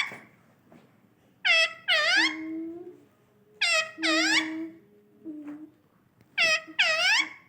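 Pet parrot calling: three times a pair of loud, high-pitched two-note calls, each note dipping and rising in pitch, with short gaps between the pairs.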